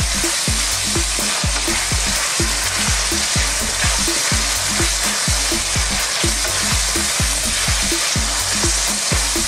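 Goat meat and sliced mushrooms sizzling steadily in a hot wok, stirred and turned with a wooden spatula.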